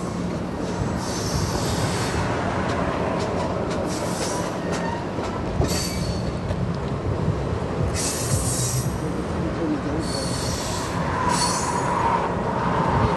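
Passenger cars of a train rolling past on the rails in a steady rumble. High hissing wheel squeals come back every couple of seconds.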